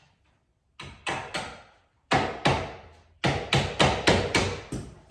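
Hammer tapping, about a dozen sharp strikes in three quick groups, the last a fast run of around seven blows.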